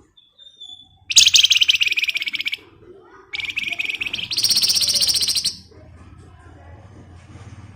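Songbird of the kind kept in Indonesia as 'flamboyan' singing two long, very rapid rattling trills (the 'ngebren' song), the second going higher partway through, over a faint low hum.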